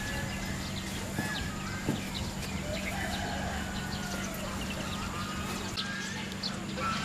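Scattered short bird chirps over a steady low hum, with a few faint clicks.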